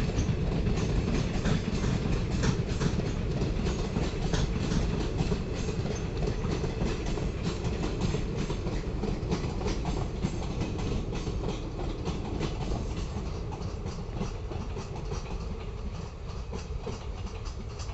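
Passenger train's ICF coaches rolling past at speed, wheels clicking rapidly over the rail joints in a steady clickety-clack over a low rumble, slowly fading as the train draws away.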